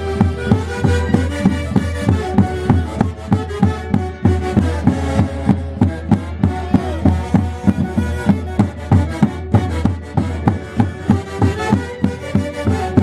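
Live Andean orquesta típica playing Santiago festival music: a steady drum beat about three times a second under sustained wind-instrument melody.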